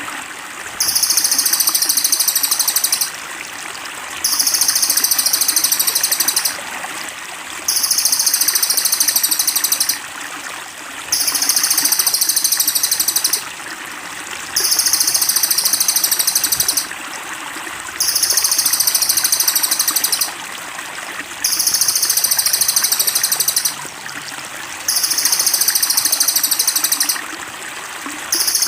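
Songbird giving a high, rapid buzzing trill in bouts of about two seconds with a short pause between, repeating very regularly, over a steady trickle of running water.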